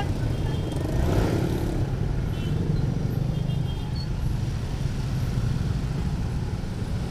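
A Honda CB150R's single-cylinder engine running at low speed as the motorcycle creeps through heavy traffic, with the steady low rumble of surrounding vehicles; a brief swell in the engine or a passing vehicle about a second in.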